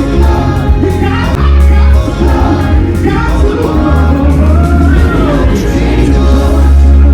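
Live concert music through a loud PA, with heavy steady bass under a sung melody line.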